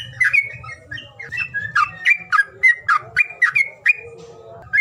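A songbird repeating short, sharp chirps, about three or four a second, each a quick slide in pitch. The chirps break off briefly near the end and then start again, over a low rumble. It is a lure call used to get reluctant songbirds to sing.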